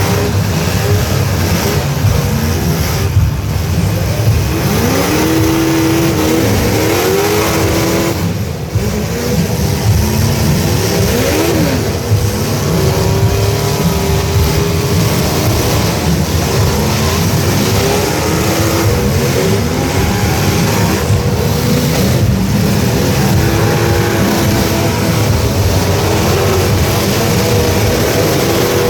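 Several truck engines running loud and revving over one another, their pitches rising and falling, as in a demolition derby heat.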